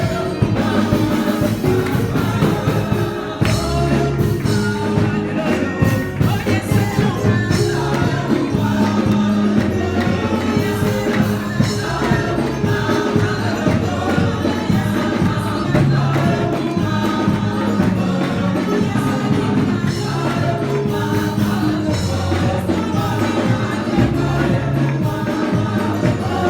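Gospel music: a choir singing over a band with a bass line and tambourine keeping a steady beat.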